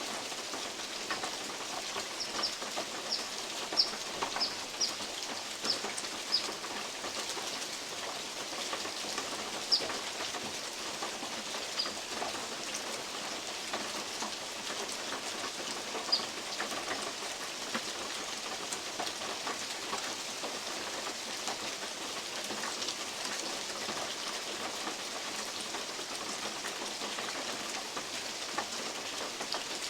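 Steady rain, with big drops falling from oak leaves onto a metal roof as scattered sharp taps. A bird gives a run of short, high chirps, about two a second, a couple of seconds in, then a few single chirps later.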